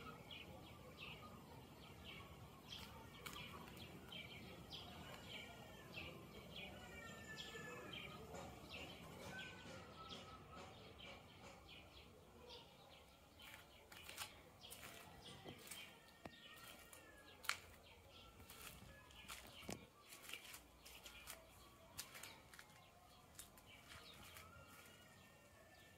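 Faint birdsong: many short chirps and whistled calls, with a few sharp clicks, the loudest about seventeen seconds in.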